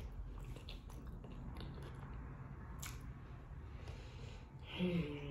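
Close-up wet chewing of a mouthful of sauce-soaked shrimp boil, squishy mouth sounds with a few sharp smacks. Near the end a closed-mouth hummed "mmm" of enjoyment starts and holds on one pitch.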